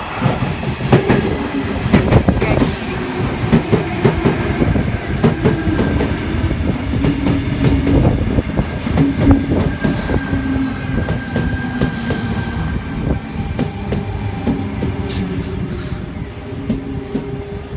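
Tangara electric multiple unit running into the platform and passing close by: wheels clacking over the rail joints, with a steady hum under the clatter.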